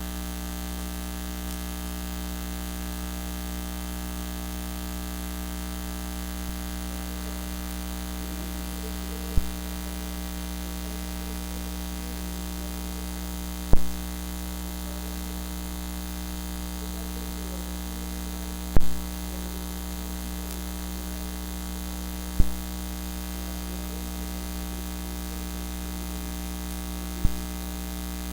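Steady electrical mains hum from the sound feed, a fault in the service's audio. It is broken by five sharp pops a few seconds apart.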